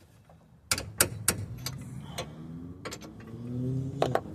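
Sharp metallic clicks and clanks from work on a car's front wheel hub and knuckle, spaced unevenly, starting about a second in. Under them a low machine hum sets in at the same time and slowly rises a little in pitch.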